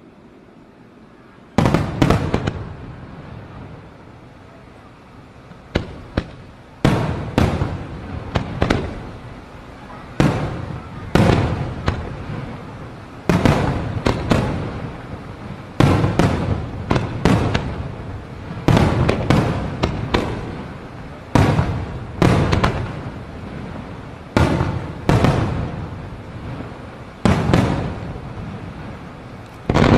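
Fireworks going off in a rapid run of loud bangs, about one every second, each fading in a short tail. The run begins about a second and a half in.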